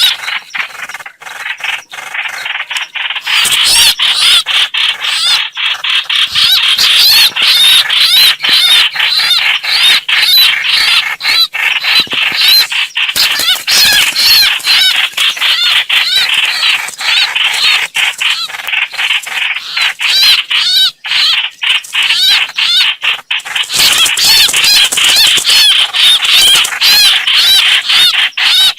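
Lure recording of the hoạch hoạch bird's call: a loud, fast, unbroken chatter of short repeated notes.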